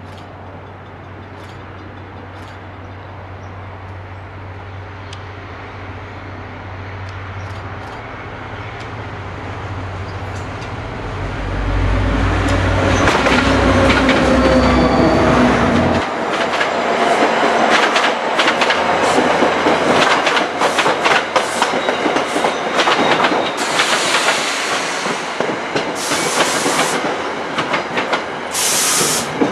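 NJ Transit diesel-hauled passenger train approaching and passing close by. The locomotive's low engine hum builds and drops away about sixteen seconds in, then the coaches roll past with wheels clicking over the rail joints and squealing.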